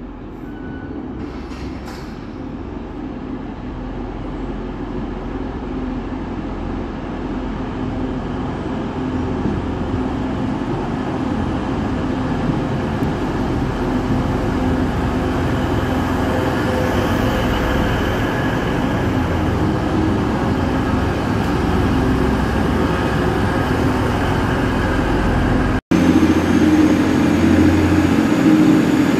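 TransPennine Express Class 185 diesel multiple unit running into the platform, its engine and wheels rumbling and growing steadily louder as it draws alongside. Near the end the sound cuts abruptly to a steadier engine hum.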